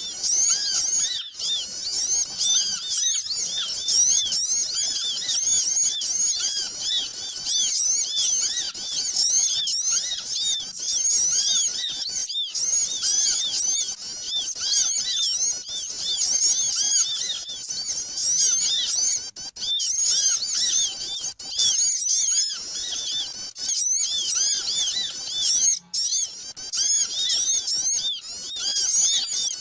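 A dense, noisy chorus of many small birds chirping rapidly and without pause in high, overlapping, arching chirps. This is a bird-lure (pikat) recording of small birds' agitated 'ribut' calls, played to attract other small birds.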